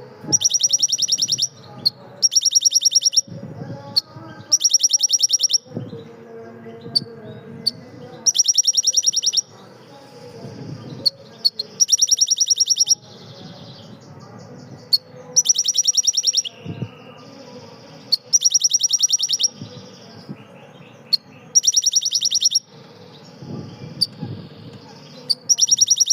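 A songbird singing loud, rapid trills, each about a second long. It repeats them roughly every two to four seconds, with softer chirps and notes in between.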